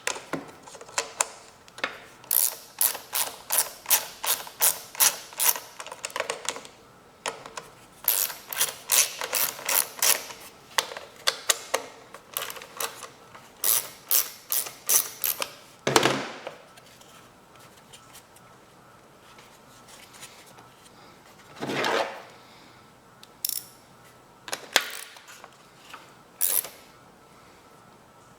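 Ratchet wrench clicking in runs of about three clicks a second as a fastener is worked, with two brief scraping sweeps and a few scattered clicks later.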